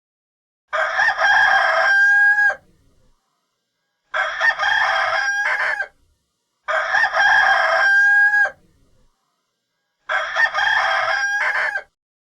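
Rooster crowing, cock-a-doodle-doo, four times, each crow ending in a long held note that drops at the end.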